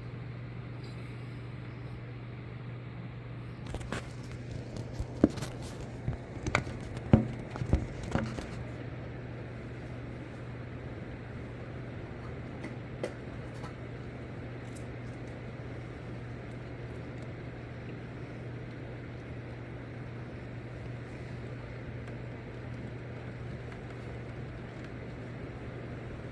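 Steady hiss over a low, even hum, with a handful of sharp clicks and knocks about four to eight seconds in.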